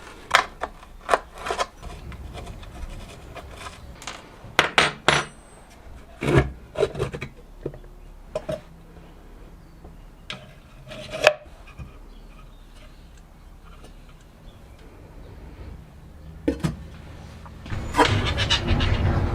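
Workbench handling while a Smiths heater fan motor is taken apart: a run of sharp clicks and knocks of tools and small metal parts, with scraping and rubbing between them. Near the end a louder, denser stretch of rubbing and rattling.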